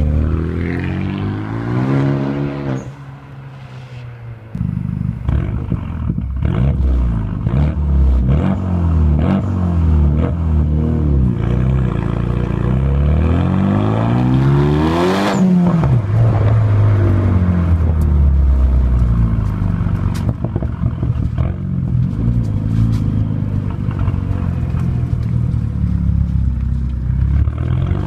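Renault Mégane 3 RS 2.0-litre turbo four-cylinder through a full-tube catback exhaust, revving and accelerating hard several times. The pitch climbs and falls off repeatedly, with a lift-off about three seconds in and the highest, longest climb about halfway through, dropping away sharply.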